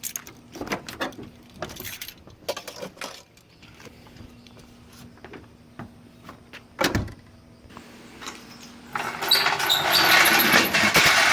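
Keys jangling, then a car door thumping shut about seven seconds in. Near the end the 1984 Cadillac Fleetwood's HT4100 V8 starts and runs loud and steady.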